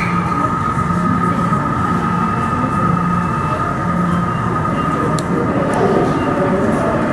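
Container freight train rolling past, its wagons' wheels on the rails making a steady loud rumble with a constant high tone and a low rhythmic beat about once a second.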